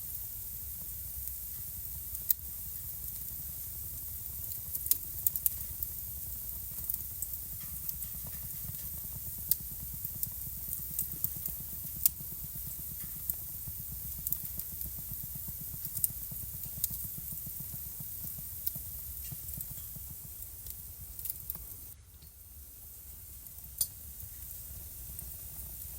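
Wood fire burning in a home fireplace: irregular sharp crackles and pops over a low steady rumble and soft hiss, the background briefly quieter near the end.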